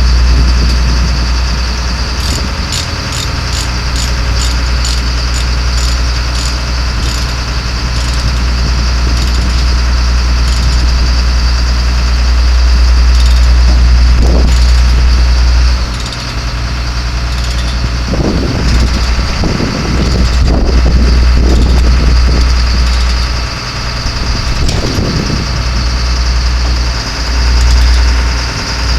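Duramax 6.6L turbo diesel engine of a GMC C6500 truck idling steadily, with a run of light, evenly spaced ticks a couple of seconds in.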